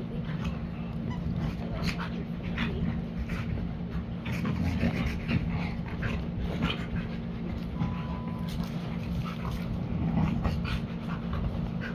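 Dogs playing together, panting and whimpering, with many short clicks and scuffles throughout.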